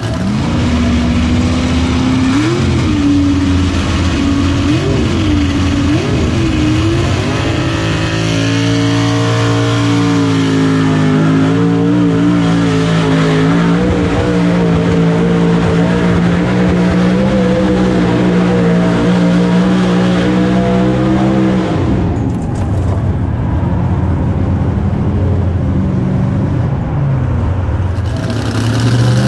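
Pulling truck's engine at full throttle hauling the weight sled. Its pitch surges up and down for the first several seconds, then holds steady. About twenty-two seconds in the throttle comes off and the engine drops to a lower running note.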